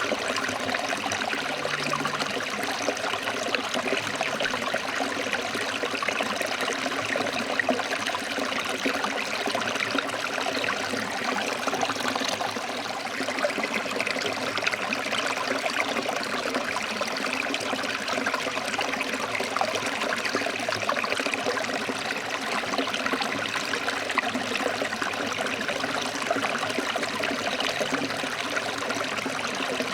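Stream water flowing over rocks, a steady splashing rush with no breaks.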